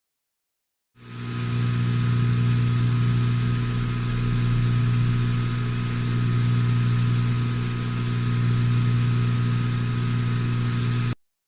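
A steady, unchanging mechanical hum or drone with a low pitch and hiss over it. It starts about a second in and cuts off suddenly near the end.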